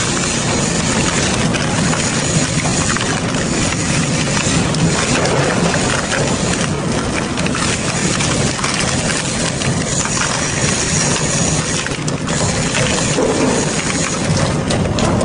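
Double-shaft metal shredder running under load: a steady machine drone with dense crunching, grinding and crackling as metal is torn apart.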